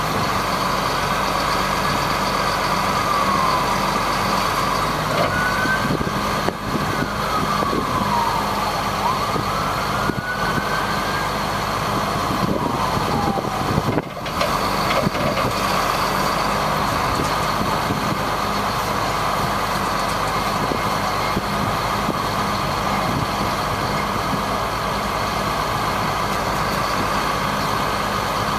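A 1999 GMC digger truck running steadily, a low engine hum with a constant whine above it. A few faint rising and falling tones come and go in the first half.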